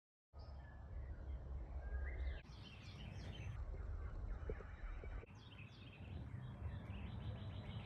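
Faint outdoor birdsong, many short chirps, over a steady low rumble, changing abruptly a few times.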